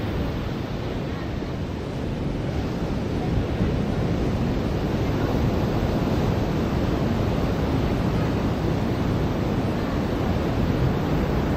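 Ocean surf washing onto a beach, a steady rushing wash of waves that grows a little louder about three seconds in.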